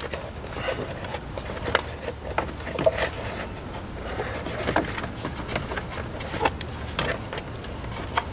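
Scattered clicks, knocks and light scrapes from hands and tools handling plastic and metal parts under the hood while removing the battery tray.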